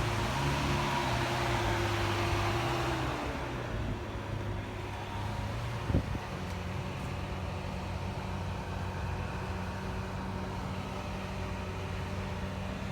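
Lamborghini Aventador S's V12 idling steadily. A hiss dies away about three seconds in, and there is a single sharp click about six seconds in.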